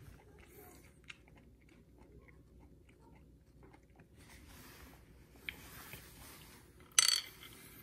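Faint chewing and mouth sounds of a person eating soft, ripe atemoya flesh, with a few small clicks and one short, much louder sound about seven seconds in.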